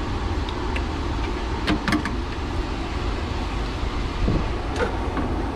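Steady low rumble of workshop background noise, with a few light clicks about two seconds in and again near the end.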